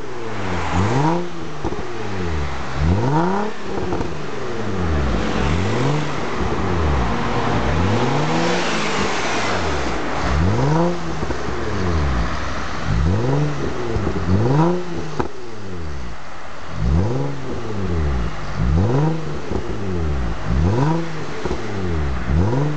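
Nissan 350Z's 3.5-litre V6 revving through a Kakumei aftermarket exhaust (Y-pipe, mid pipe and rear section): a long series of throttle blips, the pitch climbing and dropping back every second or two.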